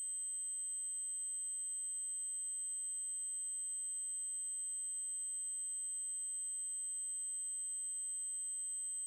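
A steady 8192 Hz triangle-wave tone, a high-pitched whine held at one unchanging pitch and level.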